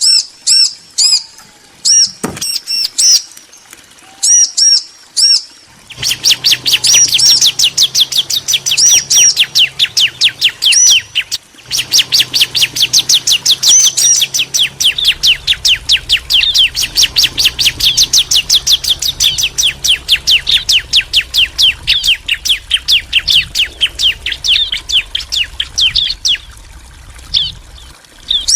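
Bar-winged prinias (ciblek), a male and a female answering each other with sharp, high chirps: a few separate calls with pauses, then about six seconds in a long, fast, unbroken chattering run of repeated notes that lasts some twenty seconds before thinning out to scattered calls.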